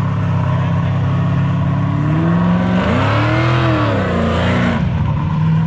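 Car engine running at idle, then revved once about two and a half seconds in, the pitch rising and falling back to idle within about two seconds.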